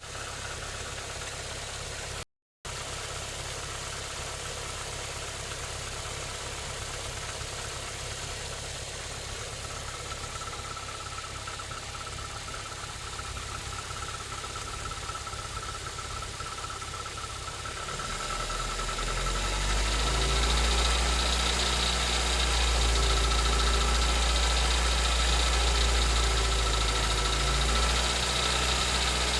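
Hyundai Getz 1.4 four-cylinder petrol engine idling steadily while cold. It grows noticeably louder and deeper about eighteen seconds in.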